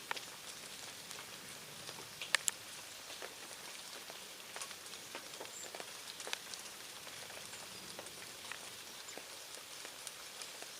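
Rain pattering on a surface: a steady hiss with scattered sharp drop ticks, the loudest a pair about two seconds in.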